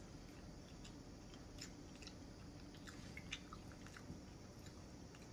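Faint chewing of chicken Alfredo: soft, scattered mouth clicks over a low steady room hum.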